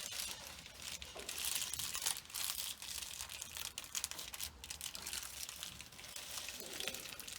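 A sheet of car insulation being handled and pressed into place, crinkling and rustling with many small irregular crackles.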